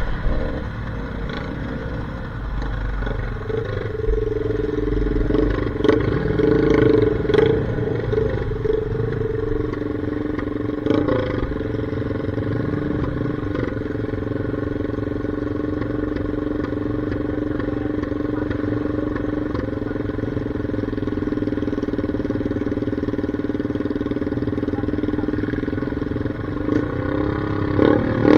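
Off-road motorcycle engine running at a steady speed for a long stretch, with a few short knocks in the first half.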